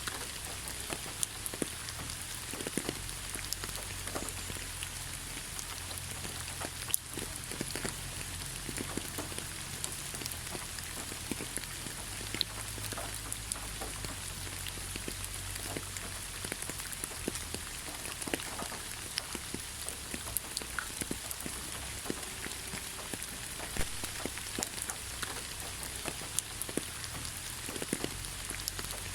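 Steady rain falling, with many separate drops striking a surface close by as short scattered ticks.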